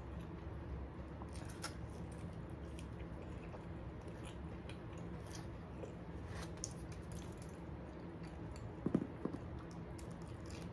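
Quiet chewing and mouth sounds of someone eating pizza, with scattered faint clicks over a steady low hum, and a couple of brief louder sounds about nine seconds in.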